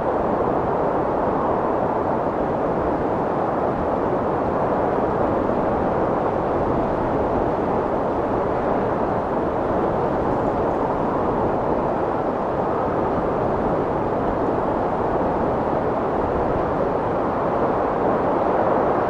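Strong wind blowing steadily, a dense, even rushing noise.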